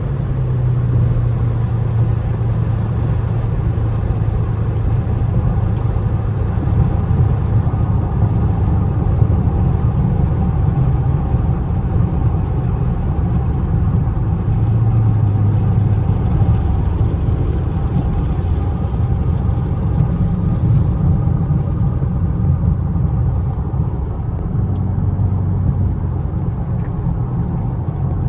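Straight-piped Chrysler 300C's Hemi V8 exhaust giving a steady low drone at an even engine speed.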